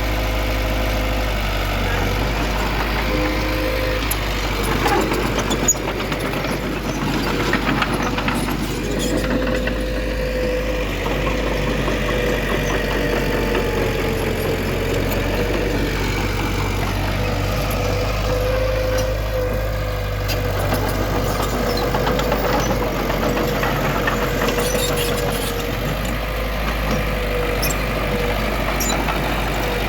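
Diesel engine of heavy earthmoving machinery running steadily, with a constant whine over a low hum and a few clanks about five to eight seconds in.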